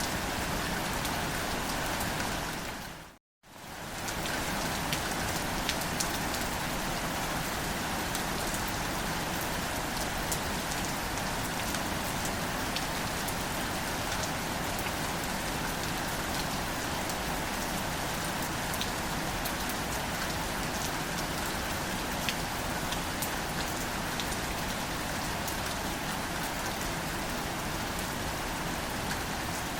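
Steady gentle rain falling on wildflowers, an even patter with scattered individual drop ticks. About three seconds in, the sound briefly fades out to silence and straight back in, like a loop splice.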